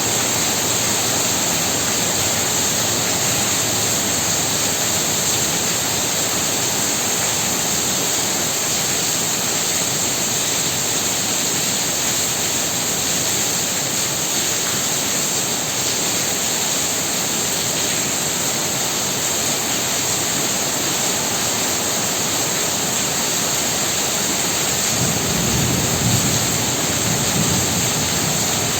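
Heavy rain pouring down steadily. Near the end a low rumble swells briefly for a few seconds.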